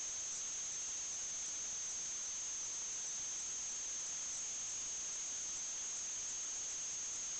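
Steady electronic hiss with a constant high-pitched whine, unchanging throughout: noise from the sewer camera's recording system, with no other sound.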